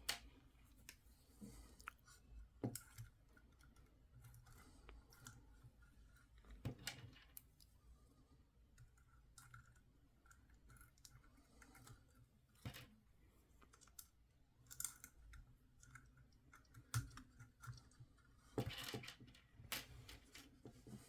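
Faint, scattered clicks and light rattles of small plastic toy parts being handled, as the Hailfire Droid's missiles are fitted into its racks. The clicks come one at a time with near silence between them, and bunch together near the end.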